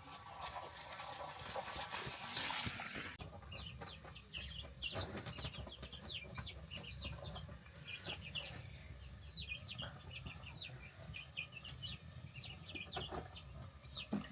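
A steady hiss that cuts off abruptly about three seconds in, followed by chicks peeping: many short, high chirps, each falling in pitch, repeated rapidly.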